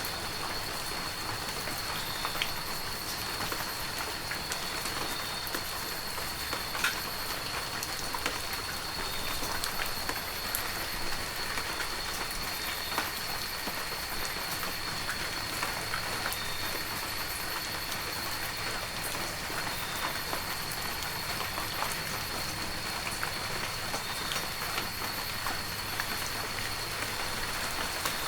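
Heavy rain falling steadily, with scattered sharp drop ticks and a faint steady high whine running under it.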